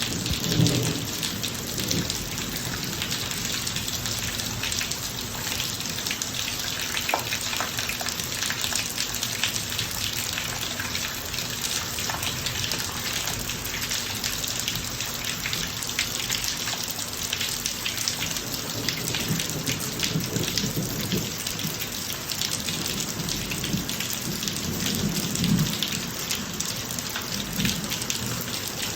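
Steady rain falling on a driveway, with a dense patter of drops. Low rumbles of distant thunder swell near the start and again in the second half.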